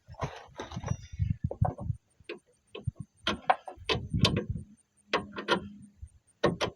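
Hand tools working on the car's suspension: irregular sharp metallic clicks and knocks, often two or three close together.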